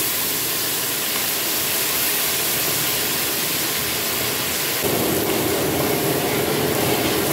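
Soaked chana dal sizzling loudly as it hits hot oil in an iron kadai. From about five seconds in it is stirred with a steel spatula, and the sizzle grows fuller.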